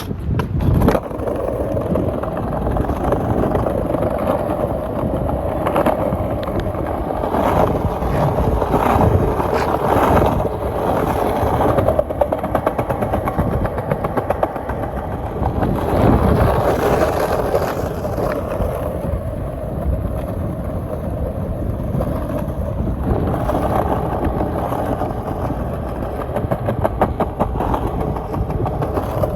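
Skateboard wheels rolling steadily over pavement, a continuous rumble with a fine, rapid clatter from the road surface. It starts abruptly at the beginning and swells a little at times.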